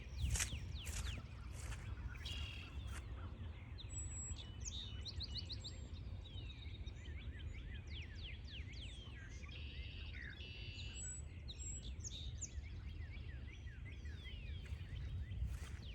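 Small birds chirping and calling in the woods: many short, quick call notes and a few brief trills overlapping, over a low steady rumble.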